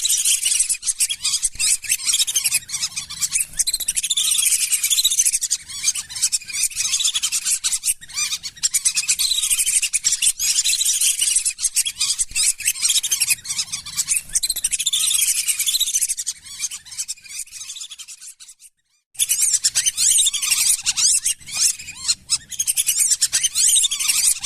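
A flock of lesser whistling ducks calling: dense, overlapping high whistles and chirps. The calls thin out, cut off completely for a moment about three-quarters of the way through, then resume.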